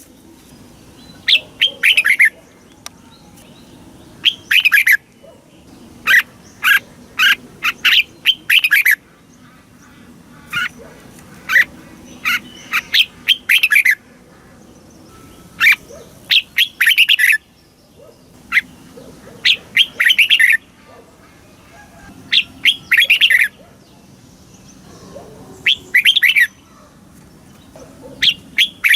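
Red-whiskered bulbul singing loud, short phrases of a few quick notes, one phrase every second or two with brief pauses between.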